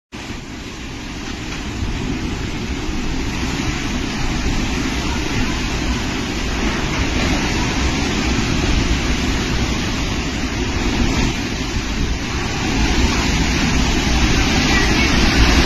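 Steady rushing storm noise with no distinct events, slowly growing louder.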